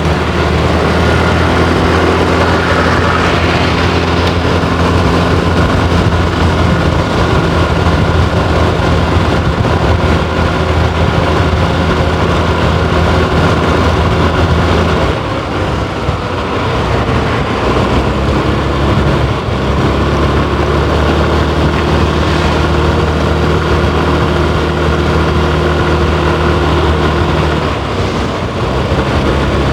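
Motorbike engine running steadily while riding, with road and wind noise; its note drops about halfway in and then holds steady again.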